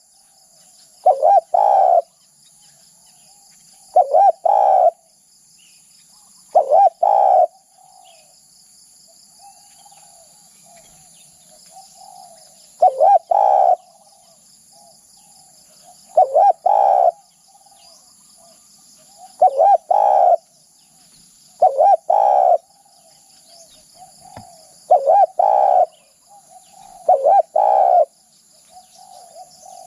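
Spotted dove cooing: a repeated phrase of a few quick notes and a longer coo, roughly every two to three seconds, with one longer pause midway. Faint chirps of other birds come between the phrases, over a steady high hiss.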